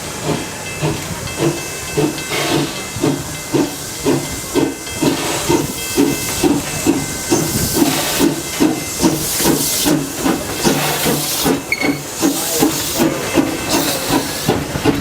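Steam locomotive Calumet & Hecla 0-6-4T No. 3 "Torch Lake" working under steam, its exhaust chuffing at a steady rhythm of about two beats a second over a constant steam hiss.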